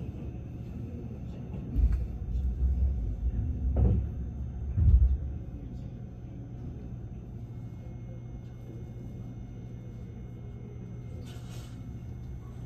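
Cabin of a Haruka limited express train on the move: a steady low hum, with heavy low rumbling thuds for a few seconds about 2 s in and a short hiss near the end.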